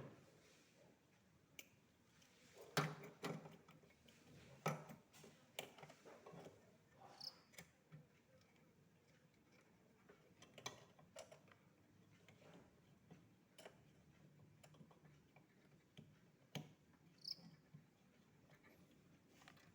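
Irregular light clicks and knocks, scattered over about twenty seconds of near silence, with a few louder ones near the start and the middle.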